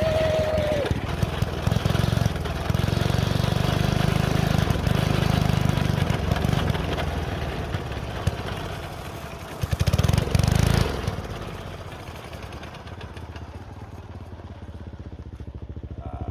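Small go-kart engine running with a steady low pulse, revving up loudly for about a second near the middle, then falling away.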